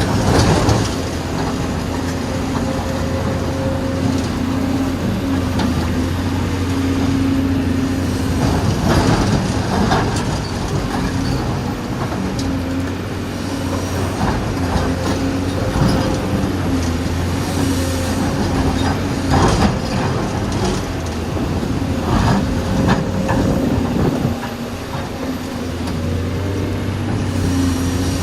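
Recorded sound of a heavy excavator's diesel engine and hydraulics, a steady drone whose pitch holds while its load rises and falls, laid over scale-model footage. Sharp clanks and rattles come now and then, most around the middle.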